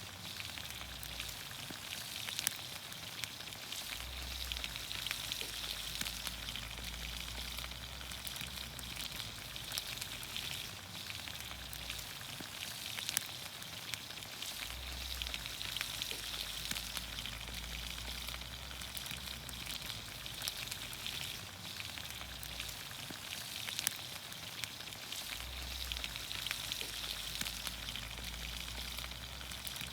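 Vegetables in olive oil sizzling in a pan over a campfire: a steady hiss with frequent small pops and crackles.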